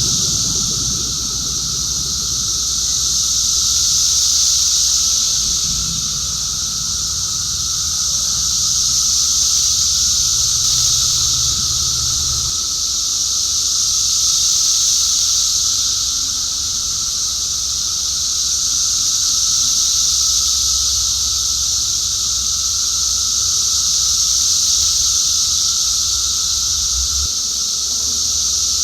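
Ambient electronic music built on a recorded chorus of cicadas: the cicadas' dense, steady high drone over a low synthesizer hum, the whole slowly swelling and ebbing. The low part shifts about twelve seconds in.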